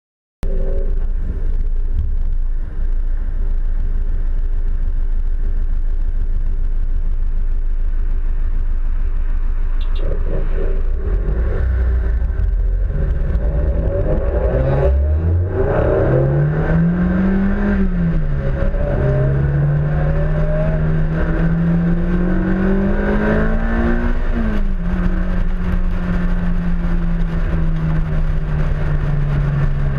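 Honda S2000's four-cylinder engine heard close up from outside the car, under heavy wind rumble on the microphone. About halfway through, the engine revs up under hard acceleration, upshifts with a sudden drop in pitch, climbs through the next gear, upshifts again, then holds a steady note.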